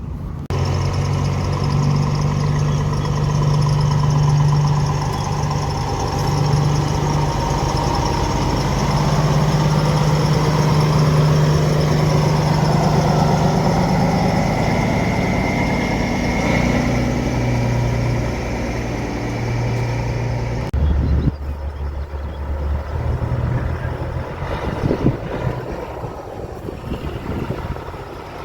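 Caterpillar diesel engine of a Peterbilt semi truck running steadily and pulling away, its pitch slowly climbing, with a faint rising whine partway through; the sound changes abruptly about 21 seconds in.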